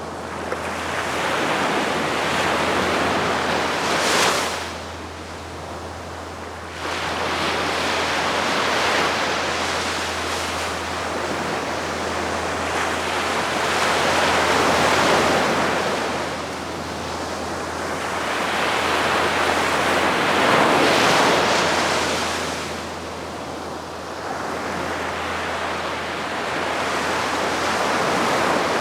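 Calm sea waves washing onto the shore and drawing back, the surf swelling and falling every few seconds, with a short lull about five seconds in. A steady low hum sits underneath.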